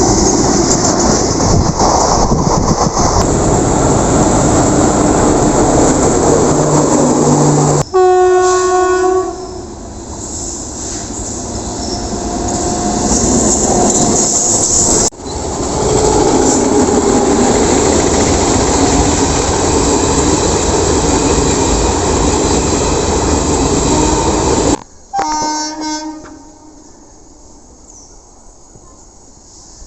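Indian Railways passenger train running past at speed, wheels clattering over the rail joints, with the locomotive horn blowing about eight seconds in and again near the end as the train noise falls away.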